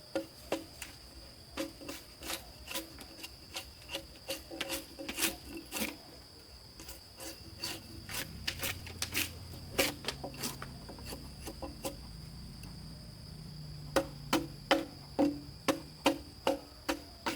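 A series of sharp knocks, like a hand tool striking wood, irregular at first and then coming about two to three a second near the end, over a steady high drone of insects.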